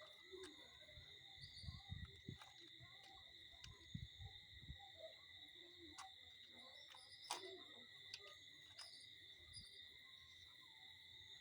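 Faint night-time insect chorus, a steady high-pitched trill, with scattered soft knocks and a sharper click about seven seconds in.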